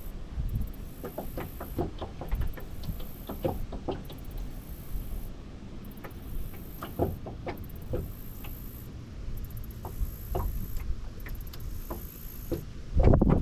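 Wind buffeting the microphone as a low rumble, with irregular light knocks and taps scattered through it and a stronger gust near the end.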